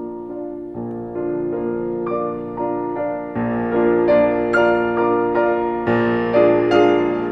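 Background music: a piano playing a slow melody over held chords, growing fuller and louder partway through.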